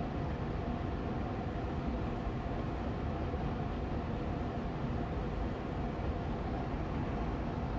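Austin Air Allergy Machine air purifier's fan running steadily on medium speed: an even whooshing hum of moving air with a faint steady tone in it.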